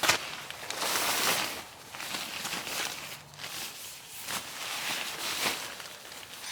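Rustling and handling of camping gear and fabric, in irregular swells, with a sharp knock right at the start.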